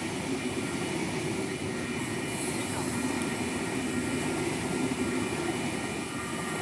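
Six-car electric passenger train, running empty, moving past: a steady running noise with a few faint, steady high tones above it.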